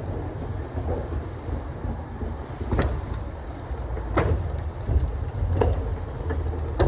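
Steady low road-and-engine rumble of a moving vehicle, with four sharp knocks or jolts about a second and a half apart.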